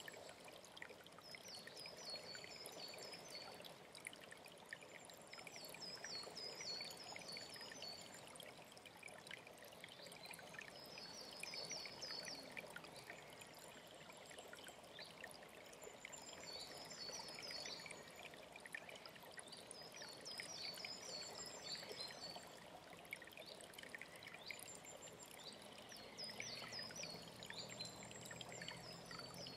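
A mountain stream running steadily, with a songbird repeating a short high song phrase of quick falling notes about every four to five seconds. A faint low hum comes in near the end.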